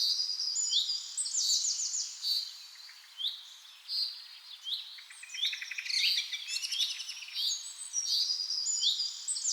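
Several birds chirping and calling together: short high notes that sweep up and down, with quick trills.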